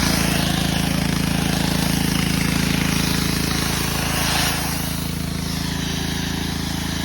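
An engine running steadily with a low, even drone, easing off slightly about four and a half seconds in.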